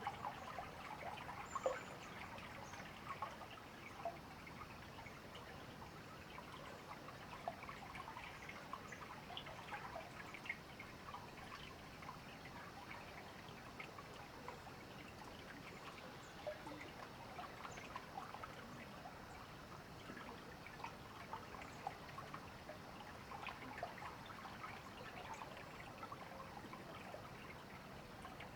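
River water babbling and trickling steadily, with a few faint, short bird chirps high above it.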